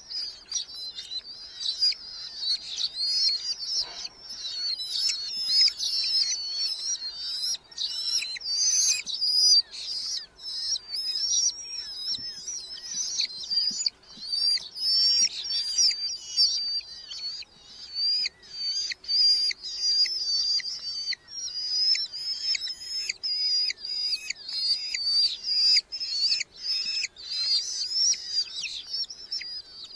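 Red-footed falcon chicks calling: a continuous stream of short, high-pitched, wavering calls, one after another.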